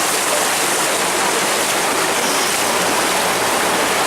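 Steady rush of moving water, an even hiss that does not let up.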